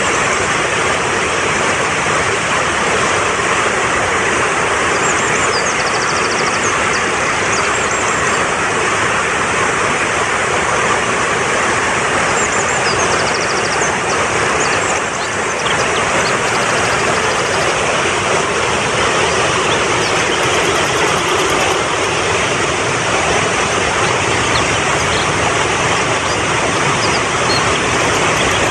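Fast-flowing mountain stream rushing steadily. Small birds chirp faintly now and then above the water.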